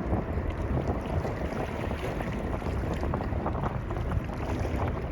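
Boeing 777 jet engines running at takeoff power, a steady deep rumble, with wind buffeting the microphone.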